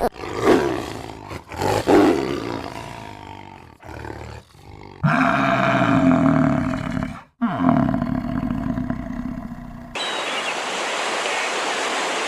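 A series of deep, roar-like animal calls in separate short clips, the loudest about five to seven seconds in, followed near the end by an outdoor wash of noise with faint bird chirps.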